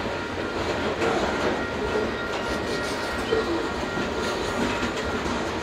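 Covered hopper cars of a Canadian Pacific grain train rolling past, a steady rumble and rattle of steel wheels on rail.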